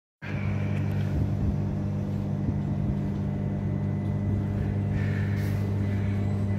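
Great Western Railway passenger train close by at the platform, giving off a steady low hum from its traction and auxiliary equipment, with faint high squeaks in the second half.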